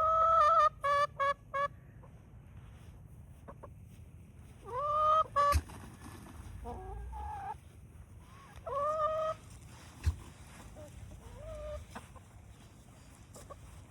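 Chickens clucking and calling: several drawn-out calls that rise at the start, the loudest just as it begins and about five seconds in, with a quick run of short clucks early on.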